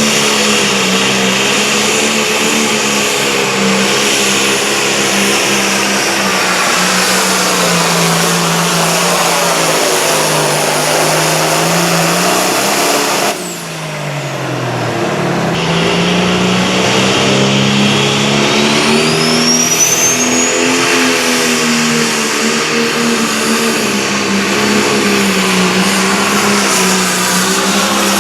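Competition pulling tractor's engine running hard at high revs, its note swelling and easing. About halfway through the engine note drops and the sound dulls briefly, then the engine picks back up. A short rising whistle comes later on.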